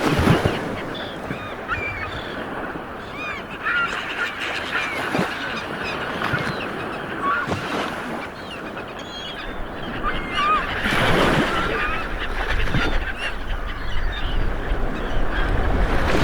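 Sea waves washing onto a beach, with one surge breaking louder about eleven seconds in, under a flock of birds calling over and over in short, rising-and-falling cries.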